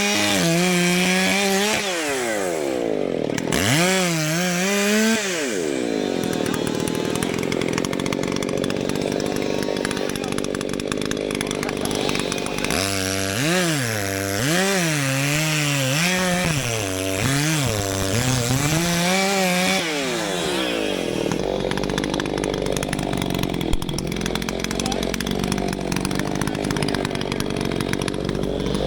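Two-stroke chainsaw cutting into a large hardwood trunk, its engine note repeatedly dipping under load and recovering as the chain bites and clears. In the last third the pitch evens out into a steadier cutting sound.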